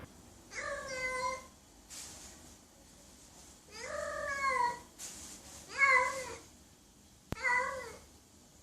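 A cat meowing four times, each call under a second long and dropping in pitch at its end, with a sharp click just before the last meow.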